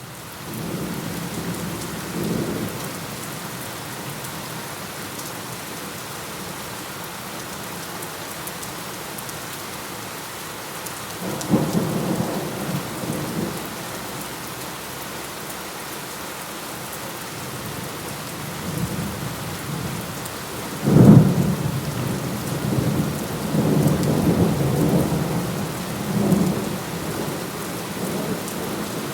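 Steady heavy rain with thunder. There are low rumbles early and again around the middle, then a sharp, loud thunderclap about two-thirds of the way in, followed by several seconds of rolling thunder.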